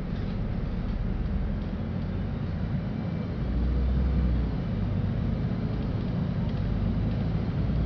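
Inside the cabin of a LiAZ-5292.65 city bus: a steady low engine rumble that swells briefly about halfway through.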